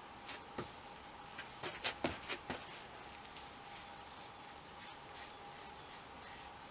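A quick run of short clicks and rubbing sounds of something being handled, about five in a second near the middle, over a steady faint high-pitched hum.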